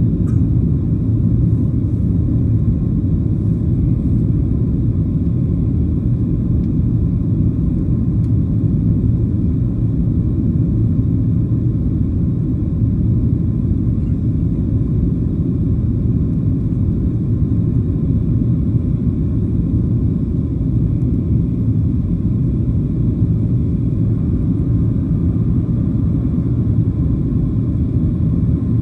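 Steady low rumble inside the cabin of a Boeing 737-700 airliner, from its CFM56-7B turbofan engines and airflow, holding even with no change.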